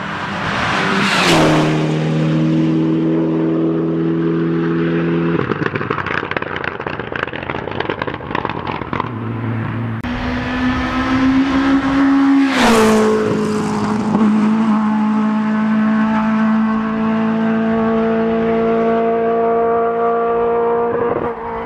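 Two rally cars passing close by at full throttle, one after the other, each engine's note dropping sharply as it goes past and then holding steady revs as it pulls away.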